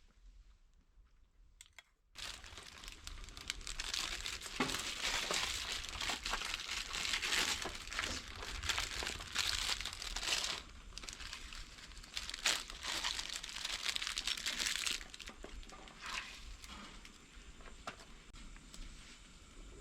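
Crinkling and rustling, like material being crumpled or handled, that starts abruptly about two seconds in and is dense for the next dozen seconds, then thins to scattered crackles.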